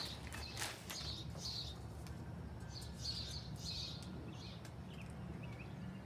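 Small birds chirping in short bursts, clustered in the first second and a half and again from about three to five seconds in, over a steady low background rumble.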